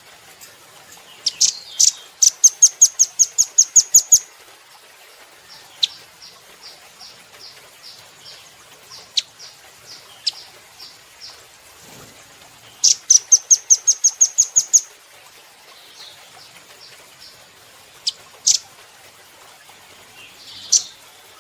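Velvet-fronted nuthatch calling: two loud fast trills of sharp, high, piping notes, about seven a second, each lasting a couple of seconds, with softer scattered chips between them and a few single loud notes near the end.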